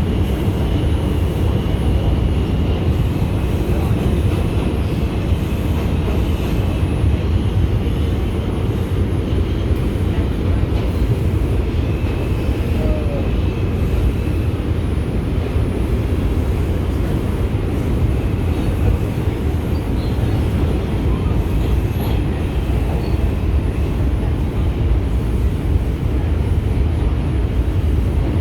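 R142 subway car running between stations, heard from inside: a steady low rumble of wheels on rail, with a faint high tone that comes and goes.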